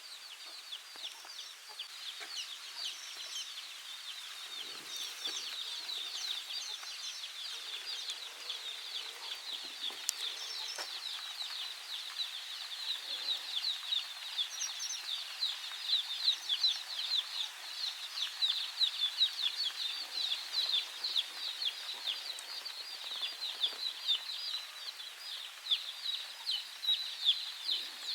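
Many small birds chirping in a dense, continuous chatter of short high calls, growing louder and busier about halfway through.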